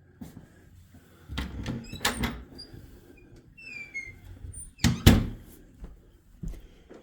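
A door being handled: a couple of knocks, several short high squeaks, and a loud thump about five seconds in.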